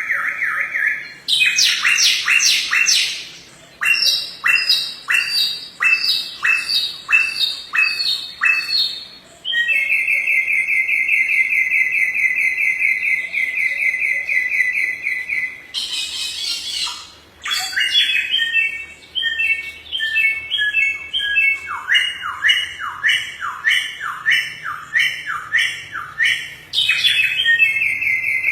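Samyong songbird singing loudly and continuously: fast trills and runs of sharp downward-sweeping whistled notes, about one or two a second, with a long even rattling trill in the middle.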